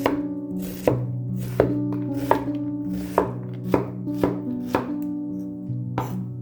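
Knife chopping on a cutting board, about nine sharp strokes at an uneven pace, over background music with held notes.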